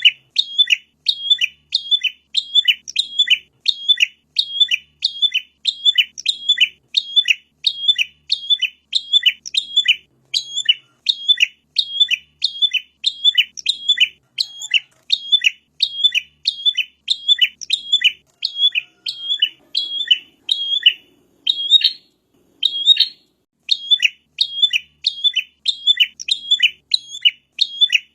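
A prinia (prenjak) calling: a short, sharp, high chirp repeated evenly about twice a second, with a brief break about three-quarters of the way through.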